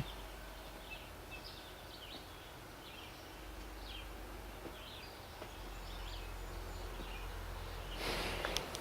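Faint, scattered chirps of small birds over a steady low background rumble, with a brief rustling noise about eight seconds in.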